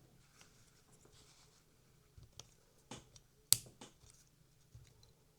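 Light scratching and small plastic clicks of handling as the gearbox cover is clipped onto an OO gauge model locomotive's bogie, with one sharp snap about three and a half seconds in.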